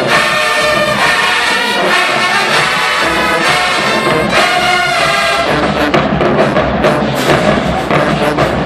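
HBCU marching band playing loud, full brass chords with trombones and trumpets, the drum line coming in strongly with sharp hits a little past halfway.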